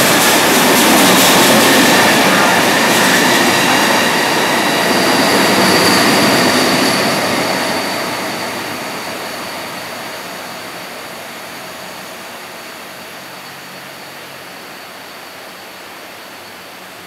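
KTT double-deck through train running through the station at speed without stopping: loud rushing wheel and rail noise as the coaches pass. It fades away steadily from about eight seconds in as the rear end passes and recedes down the line.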